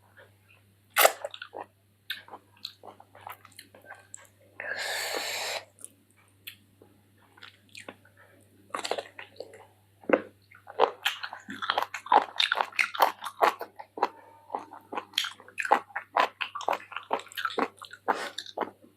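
Close-up eating sounds: a person chewing and biting chicken in curry with rice, wet smacking and crunching clicks that come thick and fast from about halfway through. About five seconds in there is a short rushing noise lasting about a second.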